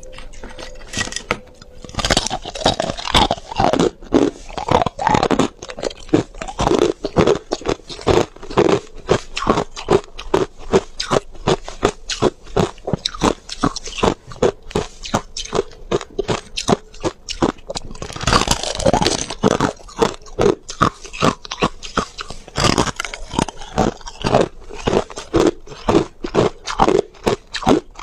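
Ice being chewed close to the microphone: rapid, sharp crunches at about three a second, with a few louder, harder bites as fresh pieces are bitten.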